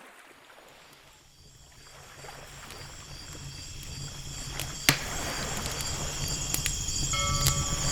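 Campfire crackling, with scattered sharp pops and one loud pop about five seconds in, over the steady wash of ocean waves and a pulsing chirp of night insects. The whole ambience fades in, growing louder across the first seconds.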